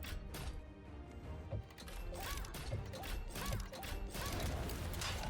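Money Train 4 slot game audio: background music with a series of sharp clanking hits, about one every half second to second, as the bonus round spins.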